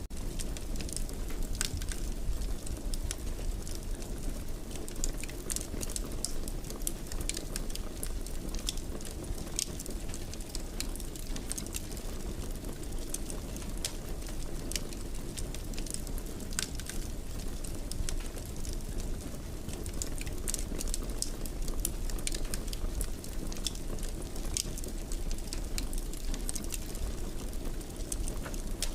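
Wood fire in a fireplace crackling, with frequent small irregular pops and snaps over a steady low rush of burning.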